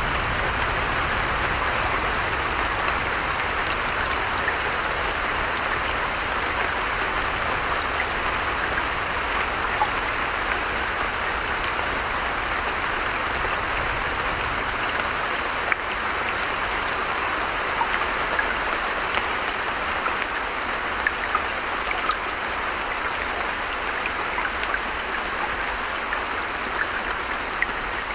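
Steady rain falling, a dense even hiss with scattered louder drop ticks.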